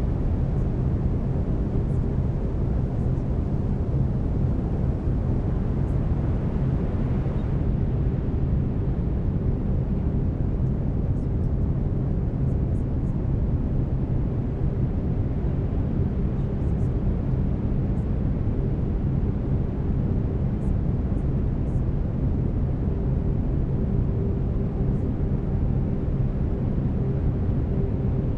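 Steady brown noise, a deep even rumble weighted to the low end, with faint low steady tones from binaural-beat layers running under it.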